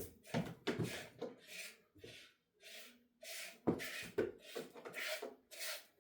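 Hand-milking a dairy goat: streams of milk squirting into a pail in short hissing strokes, about two a second, as the doe lets her milk down.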